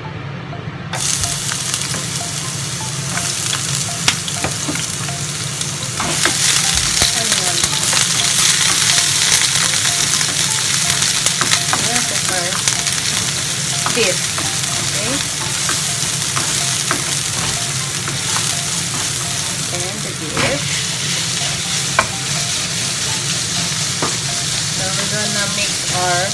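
Diced onion, then minced beef, sizzling in hot oil in a non-stick frying pan, stirred with a spatula that clicks against the pan. The sizzle starts about a second in and grows louder around six seconds in.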